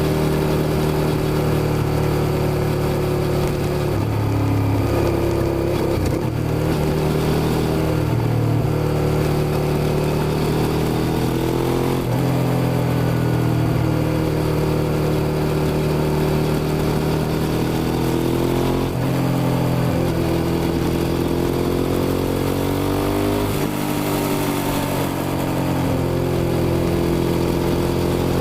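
Suzuki SV650's 90-degree V-twin engine running under way, its note rising and dropping several times with throttle and gear changes.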